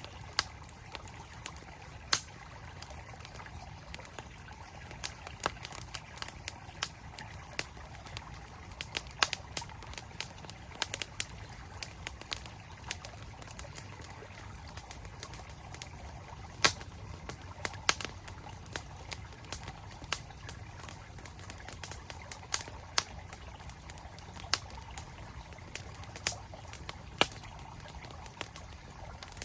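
Campfire crackling with irregular sharp pops, several in some seconds, over the steady rush of a flowing mountain stream.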